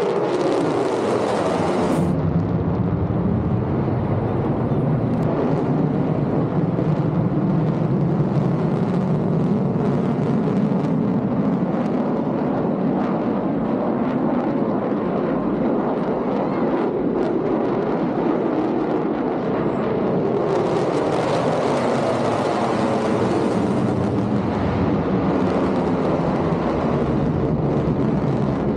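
Fighter jet engine roaring loudly as the jet flies low past the crowd. The pitch drops steeply in the first two seconds as it passes, then a steady rumbling roar continues, with another falling sweep about twenty seconds in.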